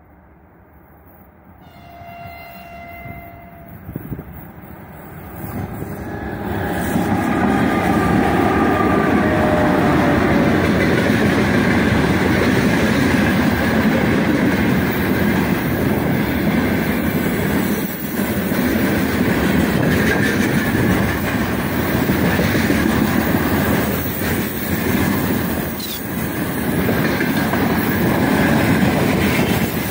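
A 3ES5K Ermak electric freight locomotive sounds its horn about two seconds in and again as it comes alongside, the pitch falling as it passes. Then its long train of loaded tank cars rolls past close by with a loud, steady rumble and wheel clatter.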